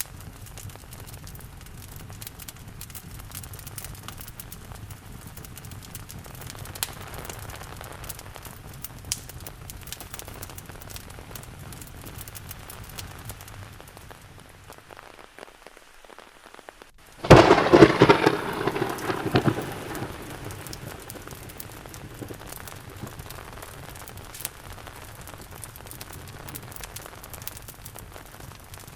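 Steady rain with a fireplace crackling through it. Well past the middle, a sudden loud thunderclap breaks in, rumbling and fading over a few seconds before the rain and crackle carry on.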